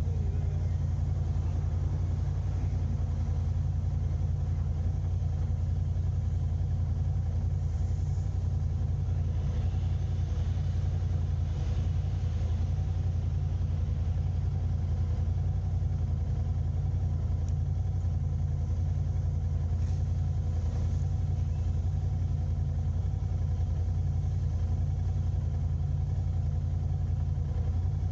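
Steady low rumble of a car driving: engine and road noise, with faint swells of hiss now and then.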